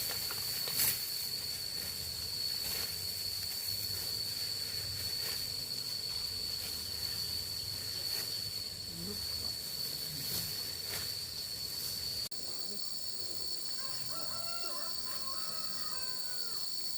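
Insects droning in a steady high-pitched chorus, with faint distant voices underneath. The sound changes abruptly about twelve seconds in, and after that the drone is a little brighter.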